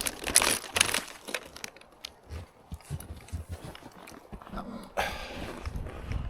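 Footsteps crunching on packed snow, with irregular thuds and scuffs.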